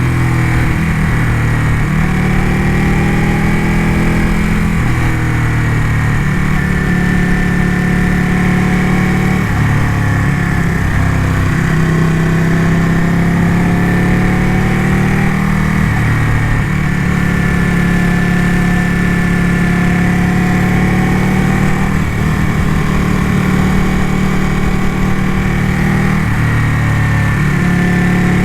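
Ducati motorcycle engine running under way on the ride, its pitch rising and falling repeatedly with throttle and gear changes.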